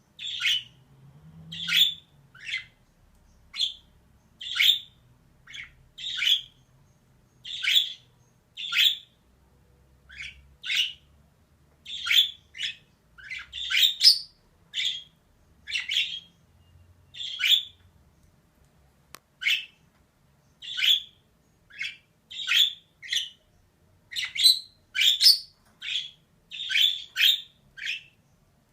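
Female budgerigar calling: short calls, about one a second, bunching into quick runs a little before halfway and again near the end.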